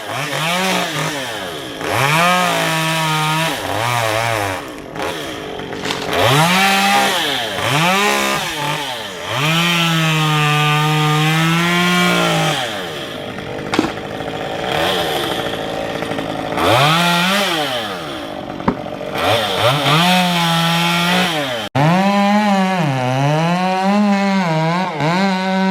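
Two-stroke chainsaw revving hard, its engine note climbing and falling again and again as the throttle is squeezed and let off, with short held stretches at full speed.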